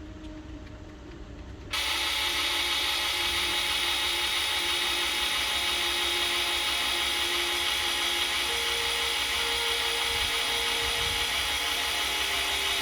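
A power tool starts abruptly about two seconds in and runs at a steady pitch without a break for the rest of the stretch, a loud, even hiss-like whir.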